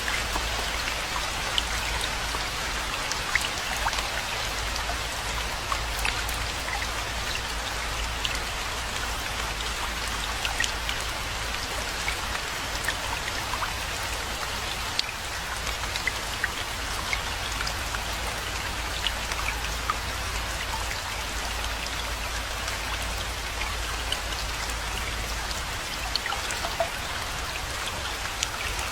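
Steady rainfall, an even hiss of rain with many individual drops ticking sharply here and there, over a low steady rumble.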